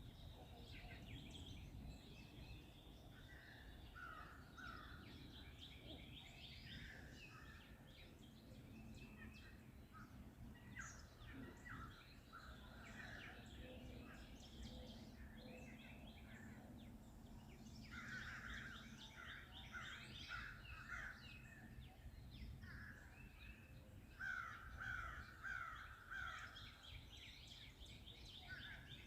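Forest birds singing and calling, faintly, with several birds overlapping; runs of quick repeated notes stand out, the loudest a little before the end. A steady low background rumble lies underneath.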